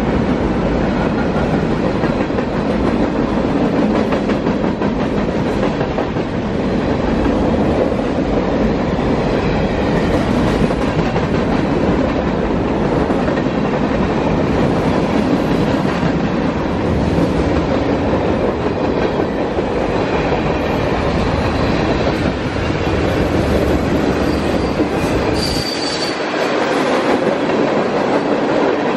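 Freight cars of a mixed freight train rolling past: a steady rumble of steel wheels on rail, with clickety-clack over the rail joints. A brief high wheel squeal comes near the end.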